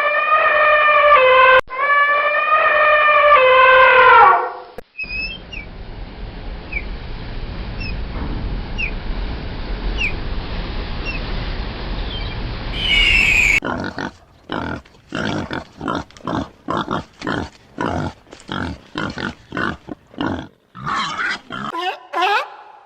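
A sequence of animal calls: first long, loud, wavering pitched calls, then an outdoor background with a low rumble and faint short chirps, then a rapid series of short repeated calls, about two a second.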